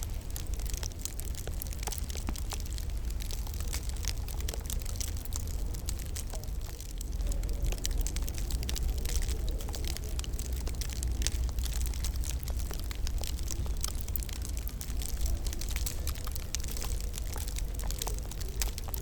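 Wood fire crackling in a fireplace, with irregular pops and snaps over a low, steady rumble.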